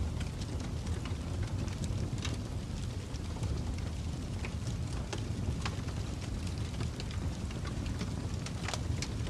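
Wood fire crackling: a steady low rumble with scattered sharp pops and snaps throughout.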